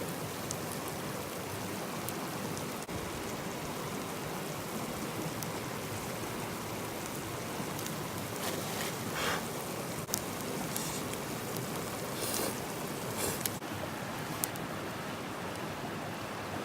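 A river flowing with a steady rush of water, and a few light clicks and taps scattered through it.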